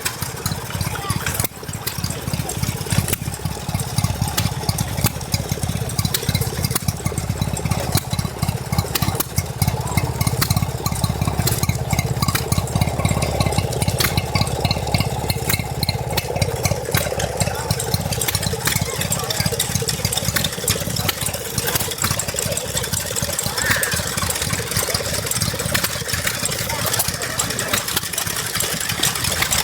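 Stationary engine running steadily with an even, rapid beat, voices in the background.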